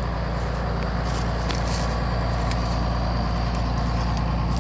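John Deere tractor's diesel engine running steadily at an even speed, a constant low hum.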